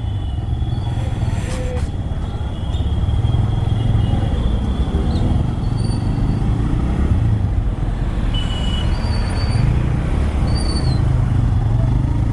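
TVS Raider 125's single-cylinder engine running steadily as the motorcycle is ridden along, with wind rushing over the microphone.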